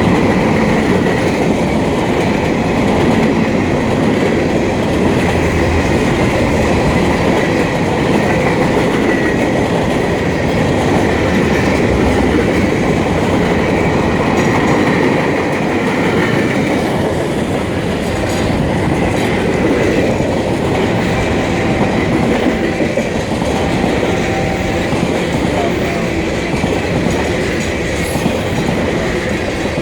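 Freight train rolling past at trackside: a steady loud rumble of the cars with wheels clacking over rail joints.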